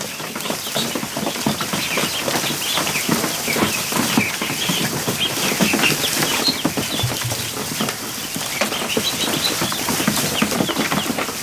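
A crowd of ducklings splashing and flapping in a plastic kiddie pool: a dense, continuous patter of knocks on the plastic, with high-pitched peeping throughout.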